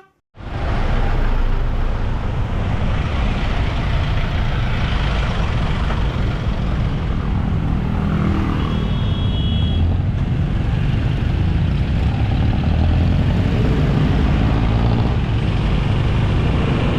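Street traffic: motor vehicles running steadily close by, with a short high-pitched tone a little past halfway through.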